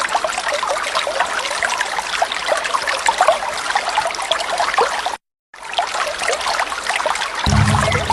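Waterfall water splashing and trickling steadily. The sound cuts out completely for a moment about five seconds in, and a low hum comes in near the end.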